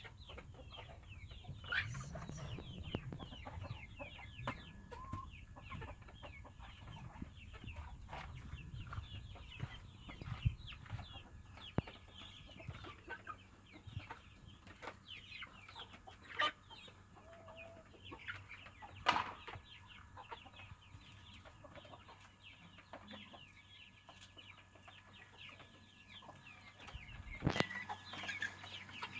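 Chickens clucking and calling: a dense run of short, high, falling calls, with a few sharp knocks scattered through.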